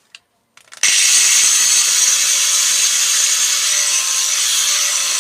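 Angle grinder switched on just under a second in and then running steadily at full speed.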